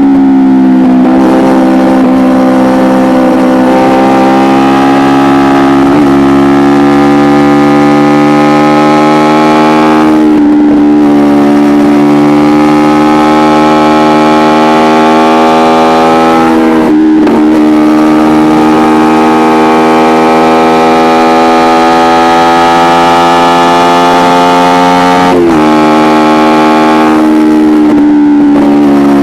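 Kawasaki Ninja 250R parallel-twin engine through an Akrapovic exhaust, running loud and held at high revs. The sound briefly dips a few times, and its pitch drops suddenly near the end.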